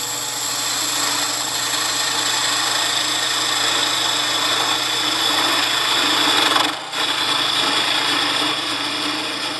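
Wood lathe running while the lead point of a round skew chisel peels down into the end of the spinning wooden blank, a steady cutting hiss over the lathe's hum. The cut breaks off briefly about two-thirds of the way through, then resumes.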